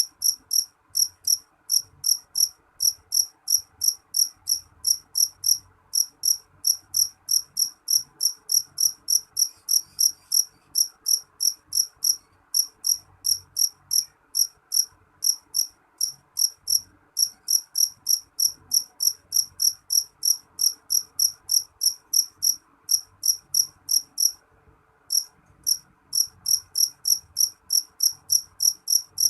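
A cricket chirping in an even rhythm, a few high-pitched chirps a second, with one short pause about 24 seconds in.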